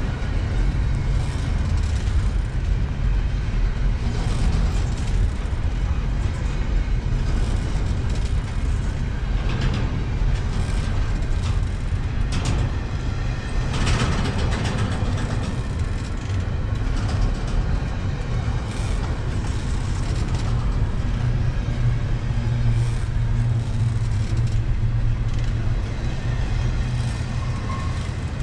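Double-stack intermodal well cars rolling past: a steady low rumble of steel wheels on rail, with scattered clanks and clicks from the cars and couplers.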